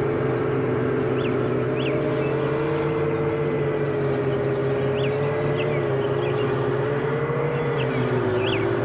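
A five-inch FPV quadcopter's four brushless motors (T-Motor 2207.5, 2100KV) spinning Gemfan tri-blade props in steady cruise: a steady whine that dips slightly in pitch near the end.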